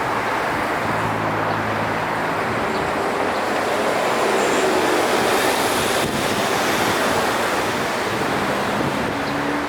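Steady city road traffic: cars passing with tyre noise and a low engine hum, a little louder around the middle.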